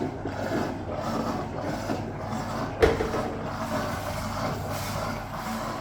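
Hoover Automatic 820 washing machine running steadily near the end of pumping out its water, just before the spin, with one sharp knock a little under three seconds in.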